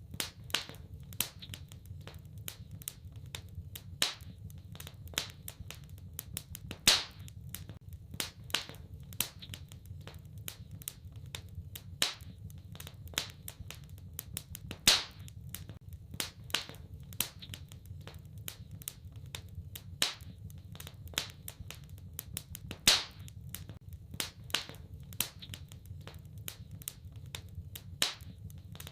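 Wood fire in a fireplace crackling: a constant scatter of small snaps with a louder pop every few seconds, over a low steady rumble.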